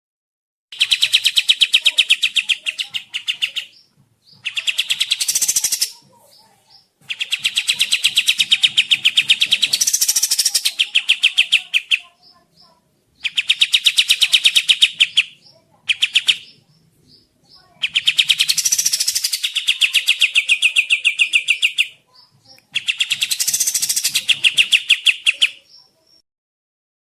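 Kapas tembak songbird singing a fast, rapidly pulsing rattling trill in bursts of a few seconds, with short pauses between them, the 'tembak jeda' song used as a training recording.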